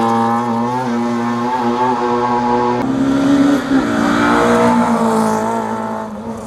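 Rally car engine at high revs on a hill climb, holding a steady high note, then shifting pitch about three seconds in before carrying on and easing off near the end.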